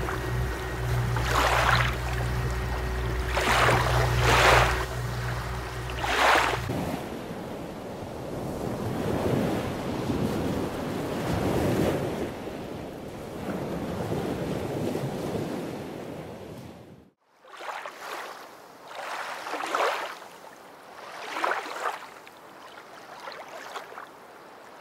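Sailing yacht motoring: a steady low engine hum with water swishing past the hull in repeated surges. About a quarter of the way in the engine hum drops out, leaving water wash and wind noise, with a sudden brief cut about two-thirds in.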